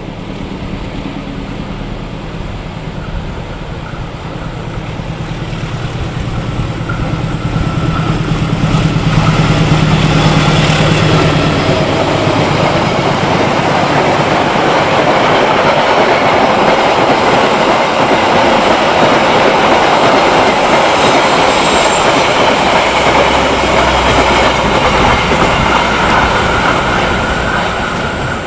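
Passenger train passing close by. A diesel locomotive's engine hum is heard as it approaches, then the steady rolling noise of the carriages on the rails builds, stays loud for most of the passage and fades near the end.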